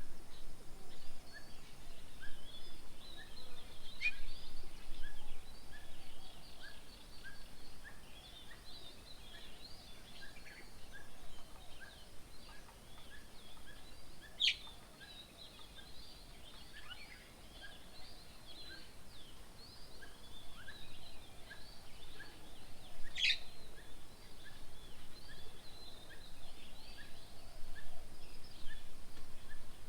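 Several birds calling and chirping together. A steady series of short repeated notes runs at about two a second, and three loud, sharp calls fall in pitch, about four, fourteen and twenty-three seconds in.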